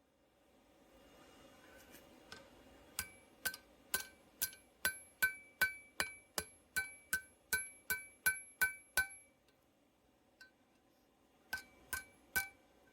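Blacksmith's hammer striking steel on an anvil-shaped object, a steady run of about sixteen ringing blows at roughly two and a half a second, then a pause and three more blows near the end.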